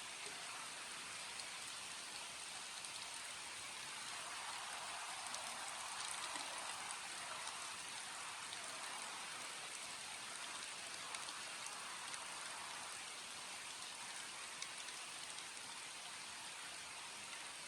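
Steady rain falling, an even hiss with occasional single drop ticks; it swells a little a few seconds in and eases again past the middle.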